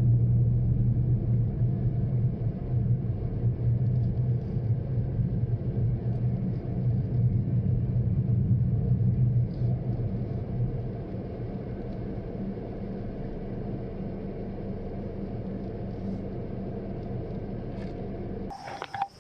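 Daihatsu Mira Cocoa small car driving: a steady low engine and road rumble, quieter from about ten seconds in, cutting off suddenly near the end.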